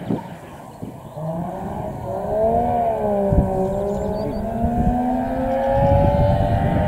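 Engine of a classic rally car approaching at speed, its note rising, dipping and climbing again with throttle and gear changes, growing louder near the end. A single short knock about three seconds in.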